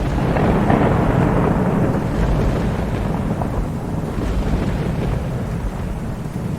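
Thunder rumbling over rain: a rolling swell over the first two seconds that eases into a steady low rumble.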